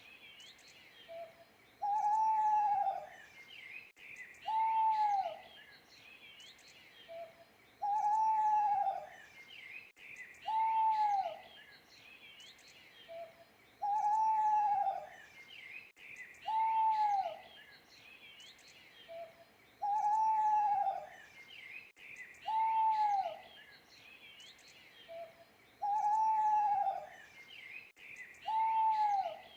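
An owl hooting: a single hoot that rises and then falls, about a second long, repeated every three seconds or so, with a short faint note between hoots. Small birds chirp faintly underneath.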